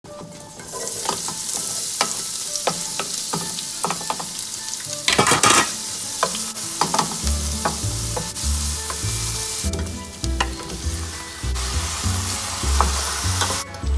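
Chopped onion, then raw chicken thigh pieces, sizzling and frying in hot oil in a stainless steel pot, with a wooden spoon clicking and scraping against the pan as it stirs. The sizzle swells briefly about five seconds in and cuts off just before the end.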